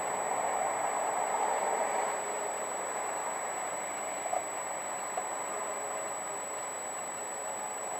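Steady car running noise, engine and road hiss picked up by a dashcam, easing slightly after about two seconds, with two faint ticks near the middle.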